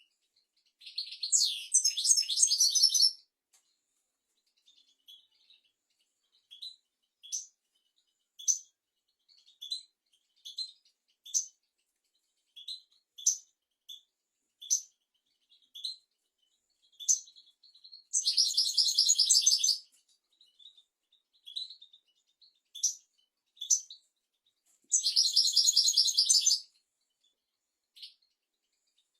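European goldfinch singing: three fast, dense twittering song phrases of a second or two each, about a second in, midway and near the end, with scattered short single chirps between them.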